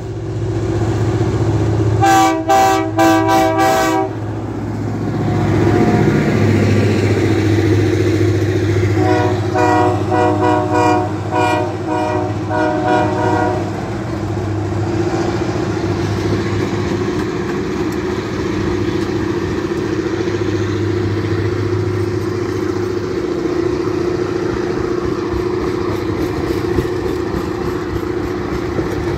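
Diesel locomotive horn sounding two quick series of short blasts as the train approaches, over the engine's steady low running. The passenger cars then roll past with a steady noise of wheels on the rails.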